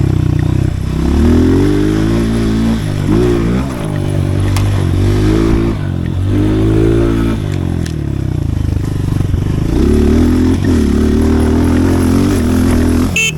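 Pit bike engine revving up and falling back again and again as it is ridden around a dirt track, the pitch climbing and dropping several times.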